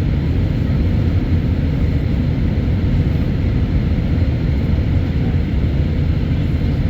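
Steady low rumble of an Airbus A319's jet engines and air systems heard inside the cabin, with a faint steady whine above it.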